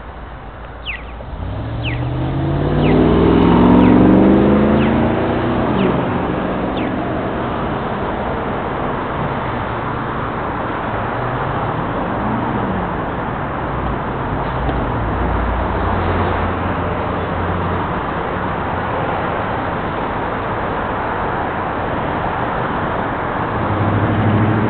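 A car engine accelerating past, its pitch climbing over about three seconds and loudest about four seconds in. After that comes a steady rush of traffic noise.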